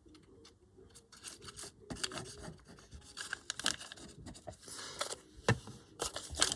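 Paper and card being rubbed and scraped in irregular short strokes as glue is applied to the paper, with one sharper stroke about five and a half seconds in.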